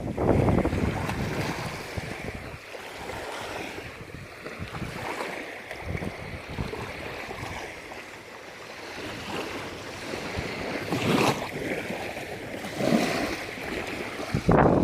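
Sea waves washing in, with wind buffeting the microphone, loudest in gusts at the start and near the end.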